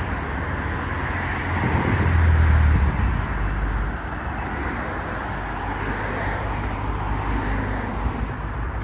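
Road traffic going by on a busy street, a steady rush of tyres and engines with a low rumble, loudest as one vehicle passes close about two seconds in.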